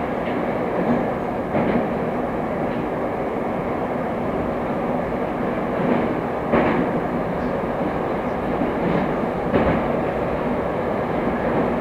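A Moskva-type Moscow Metro train running at speed through a tunnel, with a steady rumble of wheels and motors. A few sharper knocks come through as the wheels pass over the track, the clearest about a third of the way in, midway and near the end.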